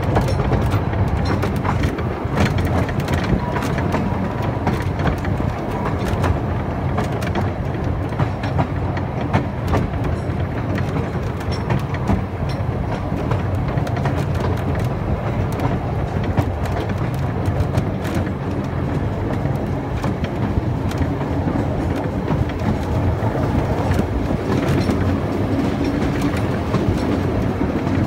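Groudle Glen Railway's 2 ft narrow-gauge train rolling along the track, heard from aboard a carriage: a steady rumble with irregular clicks and rattles from the wheels and coach.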